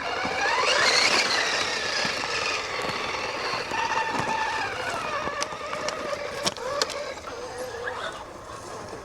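Electric motor and gear whine of a mini RC crawler truck, its pitch rising steeply about a second in and then rising and falling with the throttle, with a few sharp clicks.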